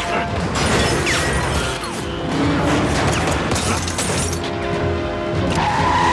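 Action-film soundtrack: loud score music mixed with car crashes, smashing and booming impacts during a car chase.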